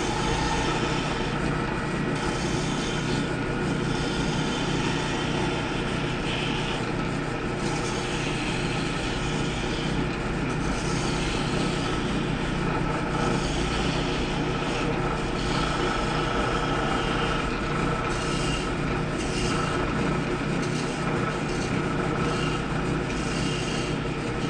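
Wood lathe running steadily: a motor hum with a steady noisy rush over it.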